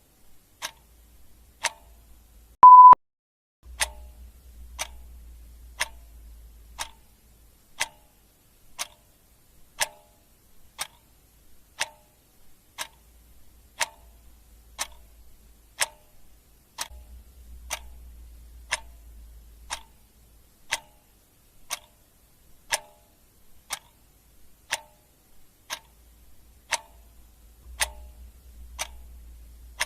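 A clock ticking steadily, about one tick a second. About three seconds in there is a short, loud single-tone beep.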